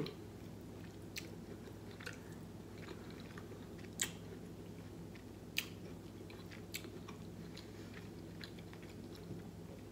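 Mouth chewing a forkful of soft stuffed bell pepper, with a few sharp clicks spread through it, over a steady low hum.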